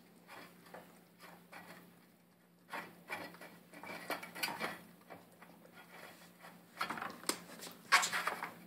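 A puppy eating from its food bowl: irregular crunching and clinks against the bowl, loudest near the end.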